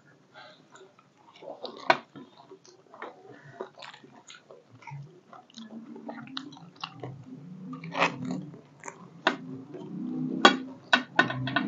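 Crunching and chewing of panipuri, the crisp hollow puri shells breaking in the mouth. Scattered sharp crunches come thicker and louder in the last few seconds.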